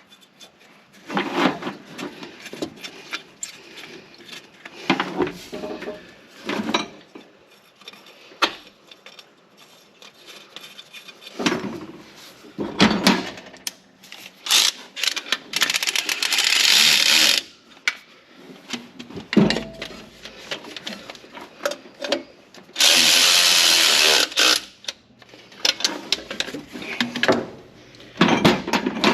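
A power tool runs twice, for about two seconds and then a second and a half, in among metal clinks and knocks of tools and parts being handled, while nuts are run onto the turbo mounting studs.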